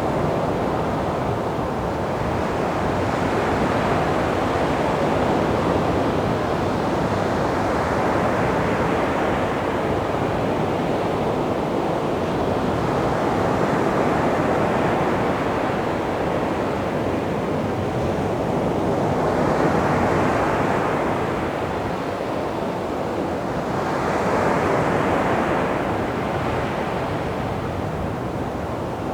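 Sea waves breaking and washing up on a beach, a steady surf that swells and eases every few seconds, with stronger wash-ups about two-thirds of the way in and again near the end.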